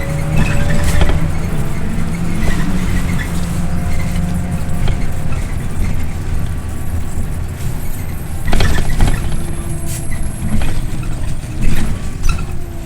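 Scania OmniLink I city bus heard from inside while riding: a steady low engine and road rumble, with frequent rattling and clicking from the bus's fittings and thin whining tones that slide in pitch.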